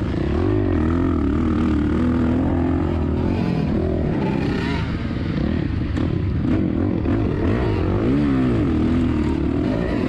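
2007 Suzuki RM-Z450's four-stroke single-cylinder engine under hard riding, its pitch rising and falling again and again as the throttle opens and closes, with wind noise on the microphone.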